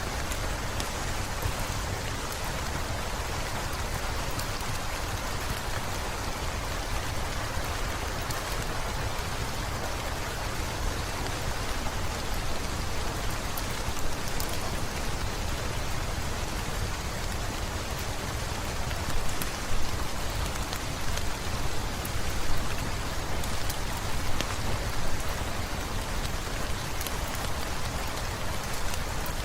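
Heavy rain falling steadily, with the small clicks and pops of a crackling wood fire. A few louder pops come about two-thirds of the way through.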